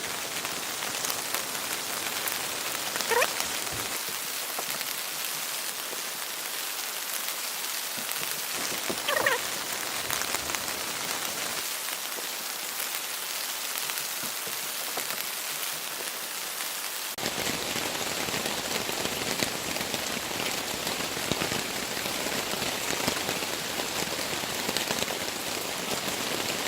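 Heavy rain falling steadily, a dense patter of drops. Two short rising squeaks cut through it, about six seconds apart, and a little over halfway through a deeper rush of noise sets in under the rain.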